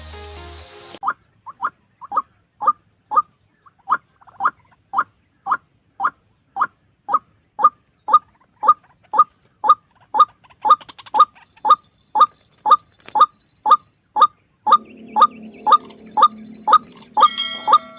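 White-breasted waterhen calling: one short, falling note repeated steadily about twice a second.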